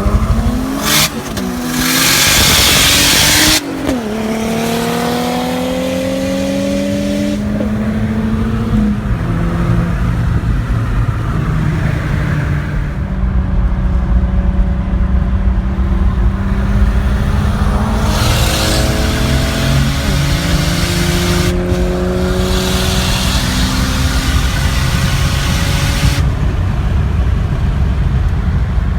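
Toyota Supra's turbocharged 7M-GTE straight-six, fitted with a Greddy T78-33D turbo, accelerating hard through the gears. The engine pitch climbs and drops at each shift, several times over, with a loud hiss about two seconds in.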